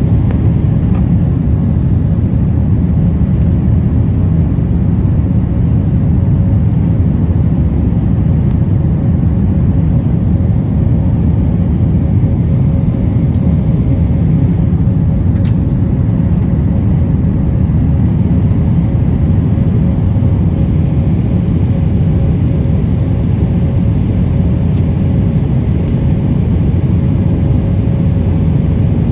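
Jet airliner engine and airflow noise heard from inside the passenger cabin: a steady, loud, deep rumble with a faint steady hum.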